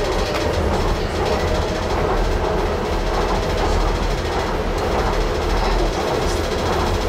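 Docklands Light Railway train running along the track at steady speed: an even rumble of wheels on rail with a few faint clicks.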